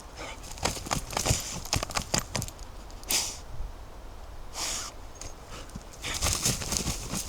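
Footsteps on a forest floor, crunching leaf litter and snapping small twigs in an irregular run of cracks that grows denser near the end, with two brief rustles in between.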